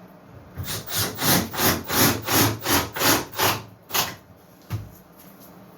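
Rhythmic back-and-forth rubbing strokes on wood, about nine in quick succession at roughly three a second, then two sharp knocks.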